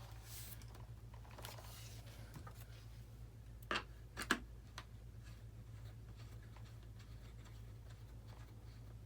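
Quiet handling noises of small parts being worked by hand: soft rustles in the first two seconds, two sharp clicks about half a second apart near the middle, and scattered light ticks, over a steady low hum.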